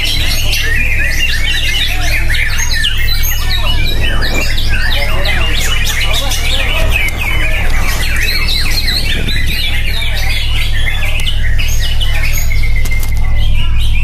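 Dense, rapid birdsong: chirps and trilled calls follow one another without pause, over a steady low hum.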